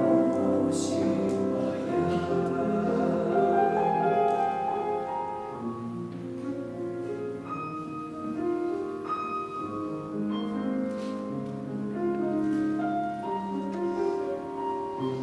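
Piano playing a song accompaniment, single notes and chords held and changing every half second or so, fuller and louder in the first couple of seconds.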